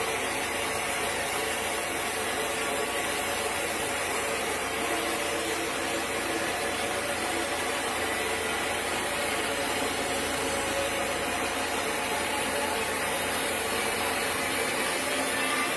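Sawmill machinery running steadily: an even mechanical drone with a strong hiss and a few steady tones.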